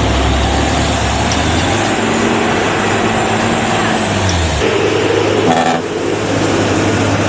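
A Hino truck's diesel engine running loudly, with road noise; the engine note shifts about four seconds in.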